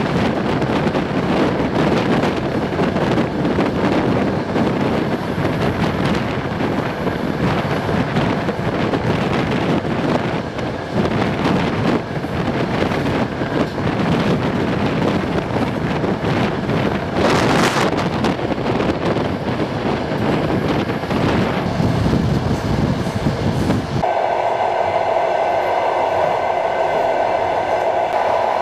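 A long-distance passenger train running, with a steady heavy rumble and rattle of wheels on track. There is a brief loud rush about 17 seconds in. Near the end the sound changes abruptly to a steady high-pitched whine with much less rumble.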